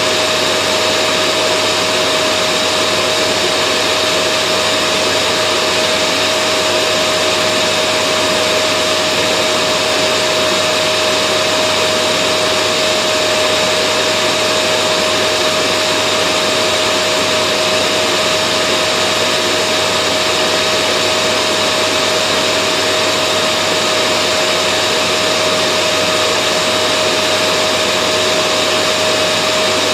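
Vacuum cleaner running steadily with a constant motor whine over its rushing air noise.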